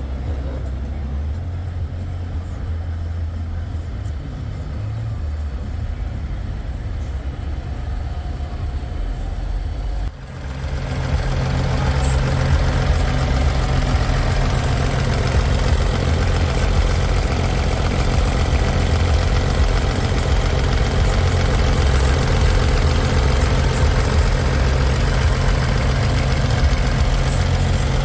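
Semi truck diesel engines idling steadily. About ten seconds in, the sound turns abruptly louder and fuller, with a steady low hum.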